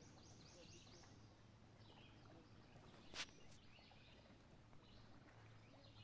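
Near silence on a riverbank, with faint scattered bird chirps and one sharp click about three seconds in.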